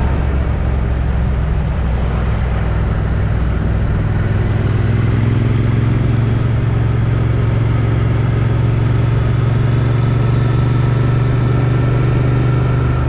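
Triumph Street Twin's 900 cc parallel-twin engine through its stock exhaust, heard on the move with wind rushing past a helmet chin-mounted camera. The engine note rises about four seconds in and then holds steady at cruising speed.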